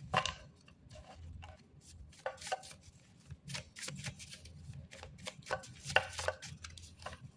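Cards being handled on a table: irregular light taps, clicks and slides as they are picked up and laid down.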